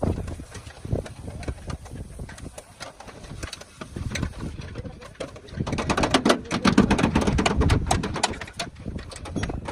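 A jumble of clicks and knocks, thickest and loudest from about six to eight seconds in.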